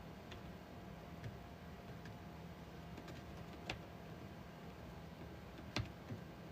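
A few scattered light clicks or taps, about five of them, the sharpest near the end, over a faint steady hum.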